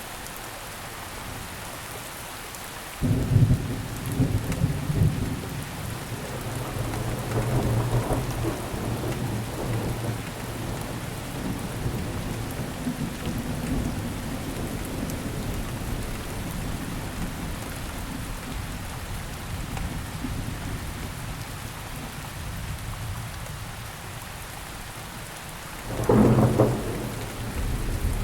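Steady rain falling, with a thunderclap about three seconds in that rumbles on for several seconds and fades, and a second clap of thunder near the end.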